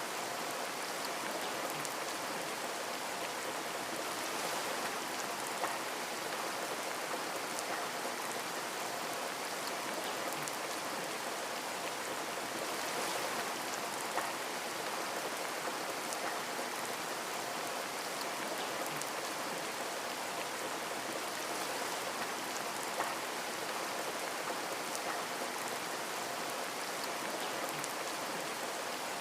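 Steady rain pattering on a window pane, an even hiss of drops with scattered individual drop taps and a few sharper ticks.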